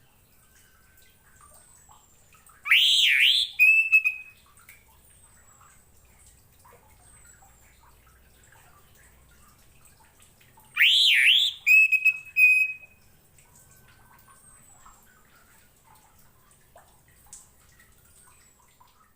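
Orange-headed thrush (anis merah) singing two short phrases about eight seconds apart. Each phrase is a few quick rising-and-falling whistles ending in a short held whistled note. Faint, thin, high falling notes sound in between.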